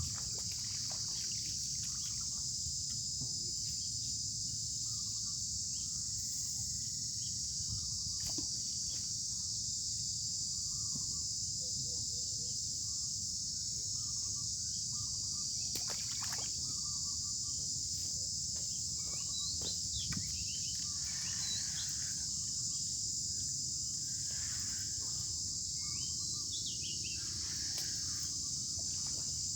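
A steady, shrill insect chorus drones without a break, with faint bird chirps in the second half over a low rumble.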